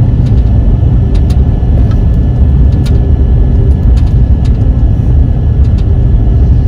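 Steady low rumble of a moving vehicle heard from inside while driving: engine and road noise, with a few faint ticks or rattles here and there.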